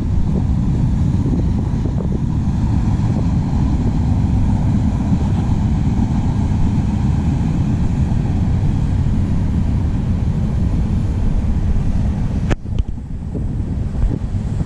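Freight train cars rolling past on the rails in a steady low rumble, mixed with wind buffeting the microphone; the sound drops briefly near the end.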